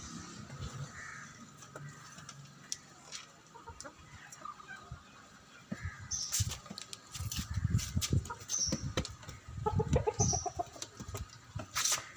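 Chickens clucking, with a quick run of clucks about ten seconds in. Sharp clicks and low thumps are mixed in during the second half.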